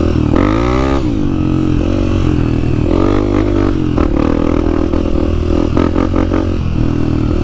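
Dirt bike engine running under the rider, revving up and easing off as the throttle is worked, with short knocks and rattles from the bike moving over rough trail ground.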